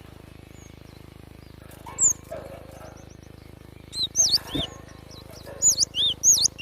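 Cinereous tit (gelatik batu) singing: a lone high note about two seconds in, then from about four seconds in a quick run of high, arched whistled notes that gets busier toward the end. A steady low hum sits underneath, with a soft knock in the middle.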